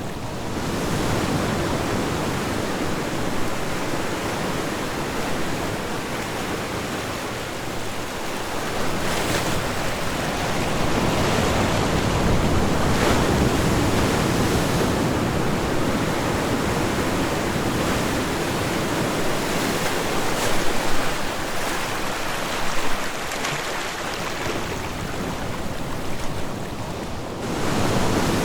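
Ocean surf washing onto a shore: a continuous rush of breaking waves that swells and eases every few seconds, with a few sharper crests as waves break.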